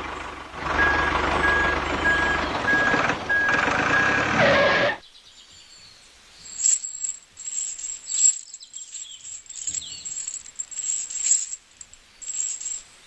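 A mini model tractor's motor running loudly with a steady low hum and rattle, while a high electronic beep repeats about twice a second. It cuts off suddenly about five seconds in, leaving faint scattered clicks.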